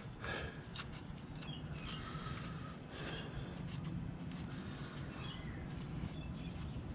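Small clicks and light metallic taps as a motorcycle's oil drain plug is handled and threaded back into the oil pan by a gloved hand, over a low steady hum, with a few short high chirps.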